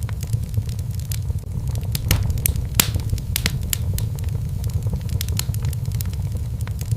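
Wood fire in a fireplace crackling and popping in irregular sharp snaps, with several louder pops, over a steady low rumble of the flames.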